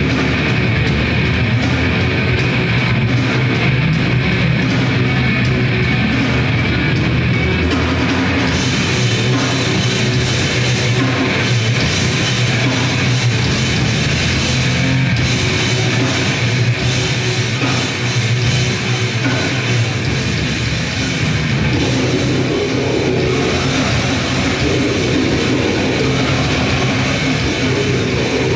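Grindcore band playing live: loud, dense distorted guitar with a drum kit. The high end thickens about a third of the way in.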